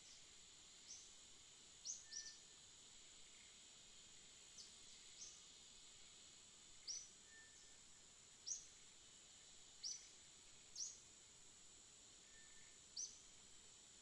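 Small birds chirping: about a dozen short, sharp, high chirps at irregular intervals, with a faint lower whistle three times. A steady high-pitched hiss lies underneath.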